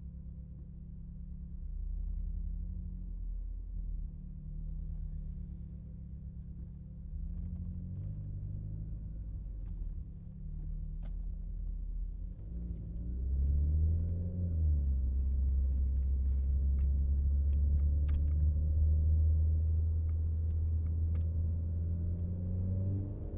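Renault Megane RS Trophy's turbocharged four-cylinder engine and exhaust running at low revs in traffic, a low rumble whose pitch wanders. About halfway it rises briefly, dips, then holds a louder steady drone.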